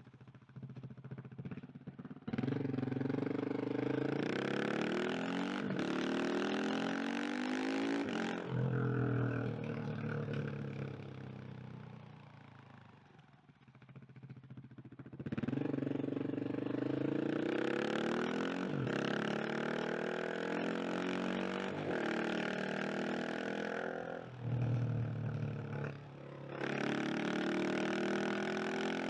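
KTM 690 SMC R single-cylinder engine accelerating through the gears, its pitch climbing and dropping back at each upshift. It fades away in a lull around the middle as the throttle is closed, then pulls hard again, and once more near the end.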